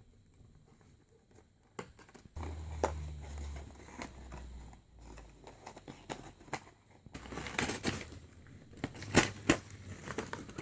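Cardboard and plastic toy packaging being handled and pulled at, with scattered clicks, scrapes and rustles. It is nearly quiet for the first two seconds, and the clicking and rustling grow busier over the last few seconds.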